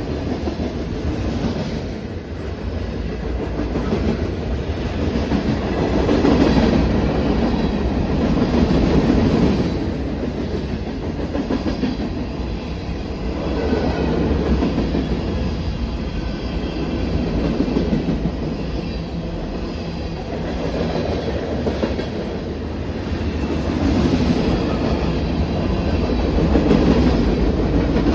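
Train cars rolling past on the rails, a continuous rumble with wheels clicking over the rail joints, swelling and easing every few seconds.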